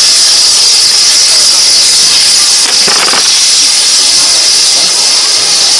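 Steam locomotive letting off steam: a loud, steady hiss of escaping steam, with a short interruption about three seconds in.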